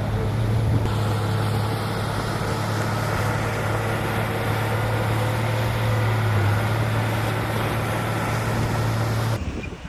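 Heavy diesel engine of a construction machine running steadily with a constant low drone, cutting off abruptly near the end.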